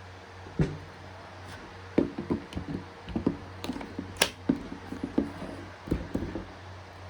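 Hard knocks and clicks of a cordless impact driver being handled and set down, irregular: one about half a second in, then a run of taps for several seconds, over a steady low hum. The driver's motor is not running.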